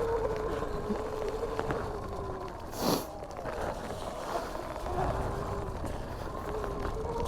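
Electric motor of a 2019 Surron Light Bee dirt bike whining steadily while riding a trail. The whine dips a little midway and rises again near the end as the bike picks up speed. Wind rushes on the microphone, with a brief louder gust about three seconds in.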